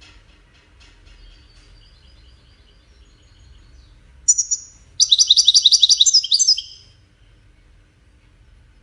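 European goldfinch singing a 'widani'-style song: soft twittering, then about four seconds in a short high call and a loud, rapid trill of repeated notes lasting about a second and a half.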